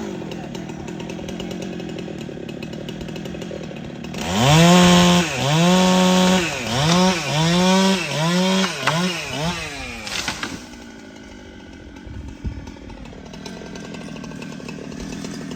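Chainsaw engine running, then from about four seconds in revved hard in a quick string of bursts for about six seconds, its pitch rising and falling with each one, before dropping back to a lower, steadier run.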